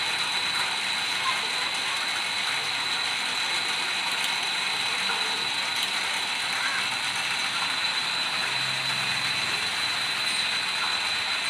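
Lathe running steadily while cutting a keyway in wood: an even mechanical noise with a steady high whine and a few faint clicks.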